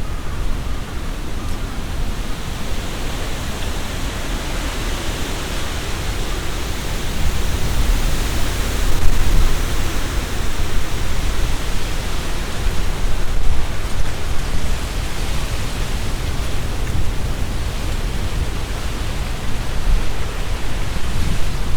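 Strong, gusty wind through trees, the leaves rustling, with a low rumble of the wind buffeting the microphone. The gusts swell about eight seconds in and again a few seconds later.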